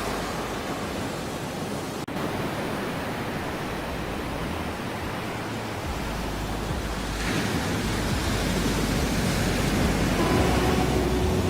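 Ocean surf: a continuous wash of waves, with a brief dropout about two seconds in and a wave building louder from about seven seconds in.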